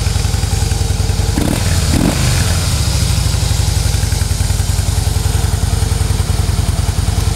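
2012 Harley-Davidson Softail Deluxe's 103-cubic-inch V-twin running at idle through its factory exhaust, nice and quiet. Its pitch rises and falls briefly about a second and a half in.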